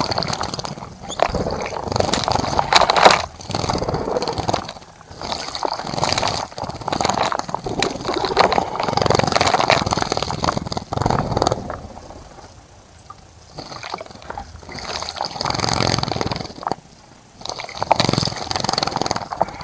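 A bird splashing in a bird bath, the water thrashed in repeated bursts of a second or two with brief pauses between them.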